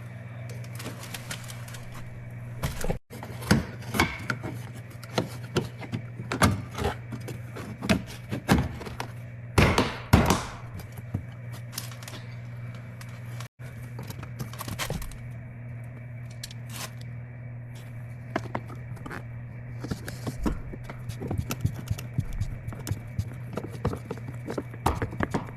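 Irregular clicks, taps and knocks of car door trim parts and fasteners being handled and fitted against the door panel, busiest and loudest about ten seconds in, over a steady low hum.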